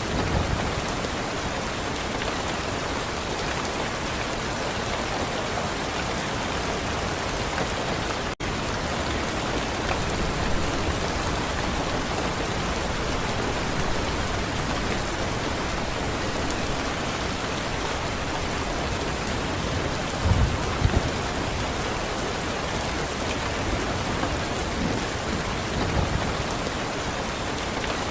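Steady, even rain falling on surfaces. The sound drops out for an instant about eight seconds in, and a few brief low thumps come through about twenty seconds in and again near the end.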